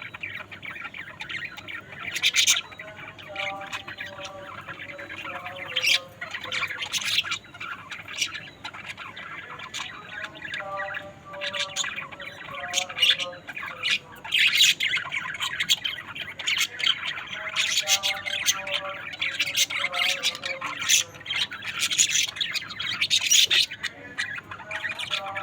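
Budgerigars chirping and squawking in quick, sharp calls, many in a row.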